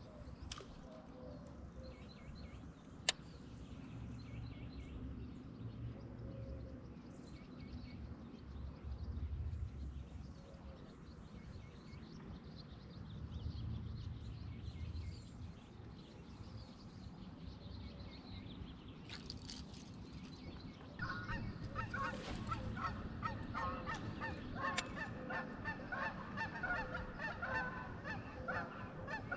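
A flock of geese honking, many overlapping calls starting about two-thirds of the way in. Before that there is only a low steady rumble.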